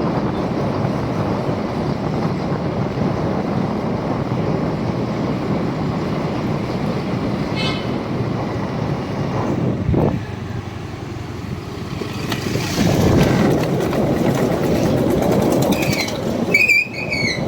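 Steady traffic and road noise. A short high tone comes about 8 s in, and a brief warbling high sound comes near the end.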